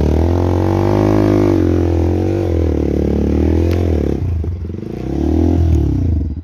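Motorcycle engine revving hard in gear while the bike struggles to climb out of a stuck spot on a slippery track. The revs rise, sag about four seconds in, climb again, and cut off suddenly at the very end.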